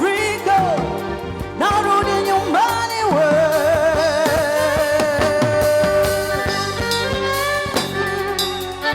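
Live Afro-fusion band playing, with drums under a lead melody that slides up into its notes and holds one long wavering note through the middle.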